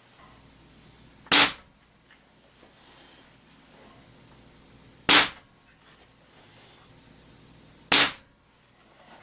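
Ruger Air Hawk .177 break-barrel spring-piston air rifle firing three shots, about three to four seconds apart, each a sharp crack that dies away quickly.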